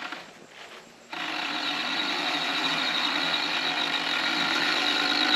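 Freshly rebuilt Polaris RZR XP Turbo turbocharged twin-cylinder engine running, cutting in abruptly about a second in and holding a steady, rattly, weird-sounding idle. The rough idle and heavy vibration are the sign of a rebuild gone wrong.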